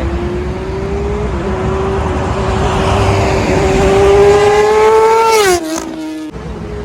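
Kawasaki ZX-10R superbike's inline four-cylinder engine at high revs on an aftermarket full-system exhaust, approaching at speed with its note climbing and growing louder, then dropping sharply in pitch as it passes by. The sound cuts off abruptly a little past six seconds.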